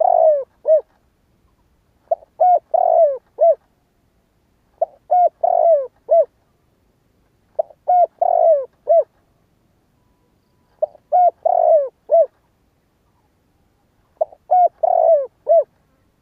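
Spotted dove cooing: the same short phrase of a few low notes, the last falling away, repeated six times with a pause of about a second and a half between phrases.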